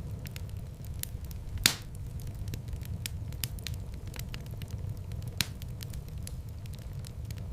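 Wood fire burning in a fireplace: frequent sharp crackles over a steady low rumble, with two louder pops, one just under two seconds in and another about five seconds in.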